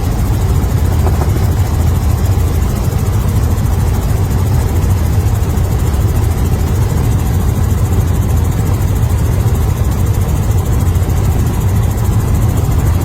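Helicopter engine and rotor running, a loud, steady low rumble without a break.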